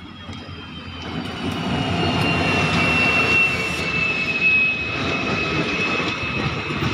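An Indian Railways diesel locomotive hauls a passenger train in alongside the platform. The engine and wheel noise grows louder over the first two seconds, then stays loud. Through it runs a high squeal that slides slowly lower in pitch as the train slows.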